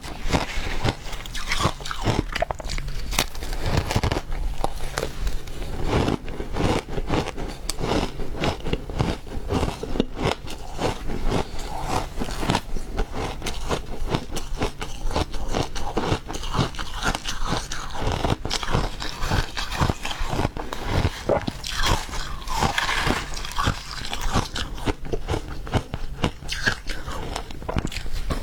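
Refrozen ice being bitten and chewed close to the microphone: a steady run of irregular crunches and cracks as the ice breaks between the teeth.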